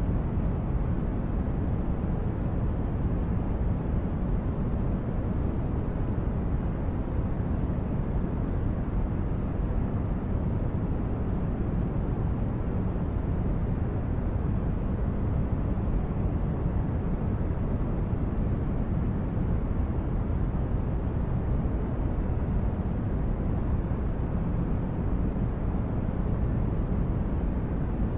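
Steady deep brown-noise hum of a synthesized starship ambience, even and unchanging, strongest in the bass with little treble.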